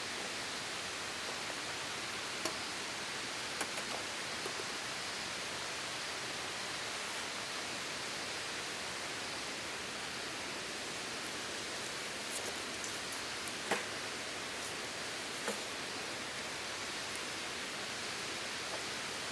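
Steady rushing hiss with a few light clicks and taps scattered through it.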